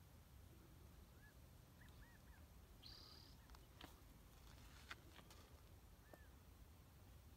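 Near silence with a few faint, short bird chirps scattered through, a brief high whistle about three seconds in, and a few light clicks.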